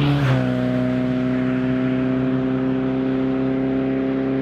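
An engine held at a steady high rev, its note stepping up in pitch about a third of a second in, then holding.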